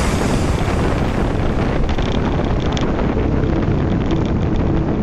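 Wind buffeting the microphone of a camera carried on a moving bicycle: a loud, steady rush of noise.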